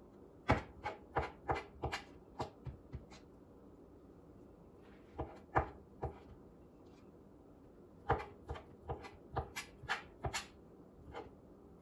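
Knife chopping rotisserie chicken on a cutting board. Two quick runs of sharp knocks, about three a second, with a pause and a couple of single strokes in between.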